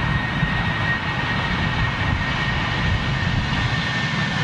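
Jet airliner engines running: a steady rushing noise with a high whine held at one pitch.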